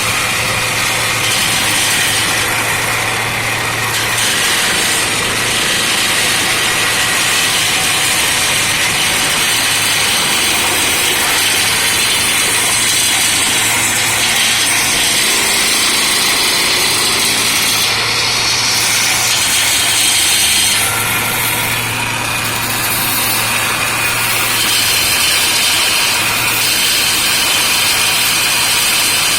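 Engine-driven forestry machinery running steadily and loudly, with a low engine hum under a dense, hissing mechanical noise that holds throughout.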